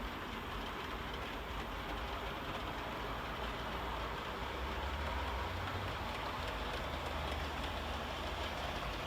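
OO gauge model train running along the track: a steady rumble of small wheels on rail with a low motor hum, a little louder midway through.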